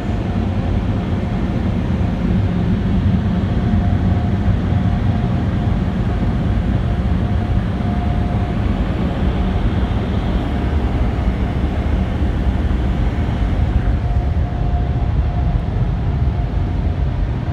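PDQ LaserWash M5's onboard dryer blowers running, a steady loud rush of air with a steady whine through it, heard from inside the car's cabin.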